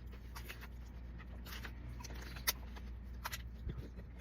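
Faint, irregular wet clicks and smacks of someone eating the juicy, jelly-like pulp of a horned melon (kiwano), over a low steady hum.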